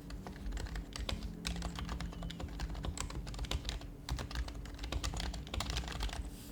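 Fast typing on an HHKB Professional HYBRID Type-S keyboard, its silenced Topre keys giving soft, muted clicks in a steady burst with a brief pause about four seconds in.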